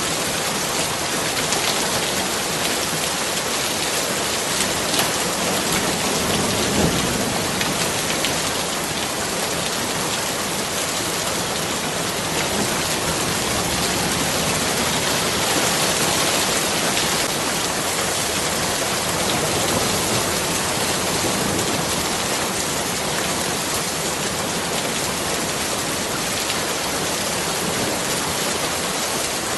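Steady, dense rainfall with many fine drops pattering on surfaces.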